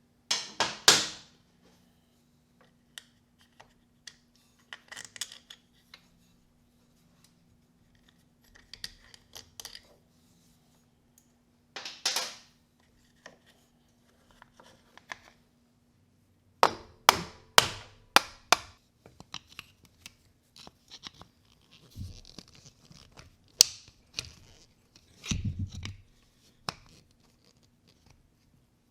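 Hand tools and parts being handled during work on an ATV: scattered clicks, knocks and scrapes with short quiet gaps, a quick cluster of sharp clicks about two-thirds of the way through. A faint steady hum runs underneath.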